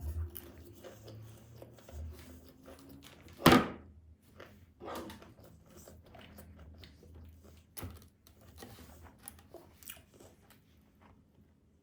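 Close-miked chewing and biting of tomato pizza, with small wet mouth clicks throughout. One sharp, loud crunch comes about three and a half seconds in, and softer ones follow a little later.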